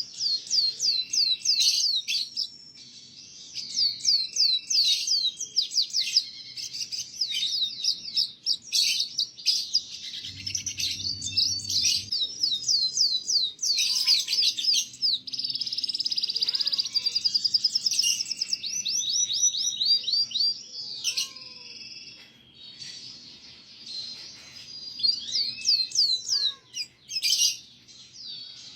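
Canary singing a long, continuous song of fast trills and rapidly repeated high sweeping notes, broken by short pauses.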